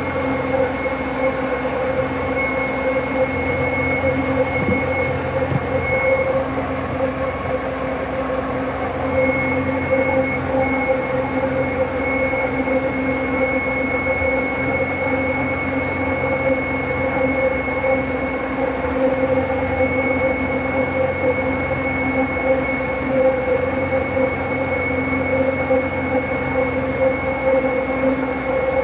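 BMW engine running with a steady, unbroken squeal made of several fixed tones over the engine hum. The squeal comes back once the engine is warm and sounds like something scraping; the owner cannot tell whether it is an idler or tensioner pulley, the alternator, or the camshaft.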